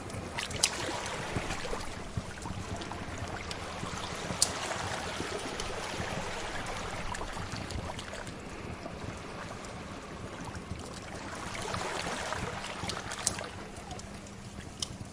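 Sea waves washing ashore in two slow swells, with a few sharp pops of a crackling wood fire over them.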